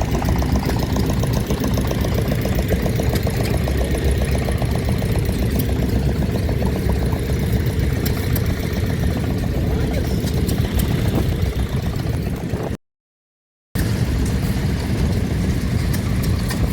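A combustion engine running steadily with a rapid, even firing beat. It cuts out to total silence for about a second late on, then the engine sound picks up again.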